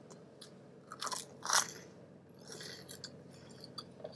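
A person biting and chewing crispy fried takeout food, with a few short crunches, the loudest about a second and a half in.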